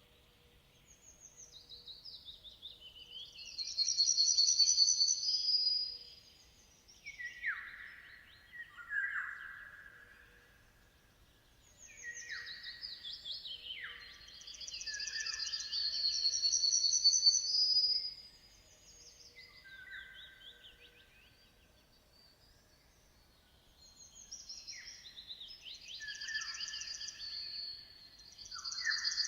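A songbird singing long, elaborate song phrases, three times, about every twelve seconds. Each phrase opens with rapid high trills and then breaks into quick notes that drop lower, with short pauses between phrases.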